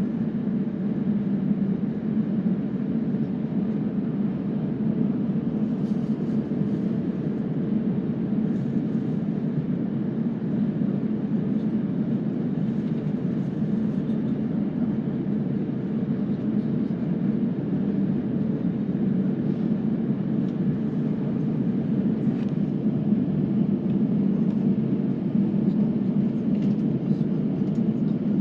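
Jet airliner cabin noise: a steady low rumble from the running engines and airframe with a faint steady hum, growing a little louder near the end.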